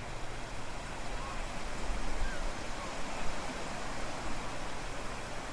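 Sea waves washing on the shore: a steady, even surf noise with a low rumble beneath.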